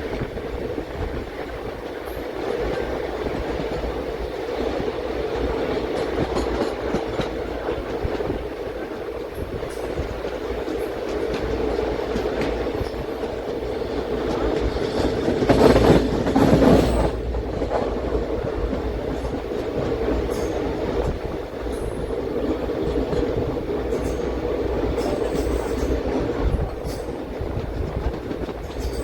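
Express passenger train running along the track, heard from inside a coach: a steady rumble of wheels on rail with some clickety-clack. About halfway through it swells louder for a second or two, then settles back.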